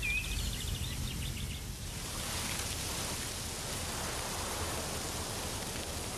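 Outdoor ambience: a small bird sings quick chirping trills over a low rumble for the first two seconds. After that a steady, even hiss takes over.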